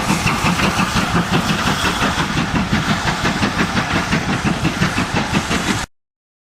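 GWR 42xx 2-8-0T tank locomotive working under steam, its exhaust beating in a rapid, even rhythm of about five beats a second. The sound cuts off suddenly near the end.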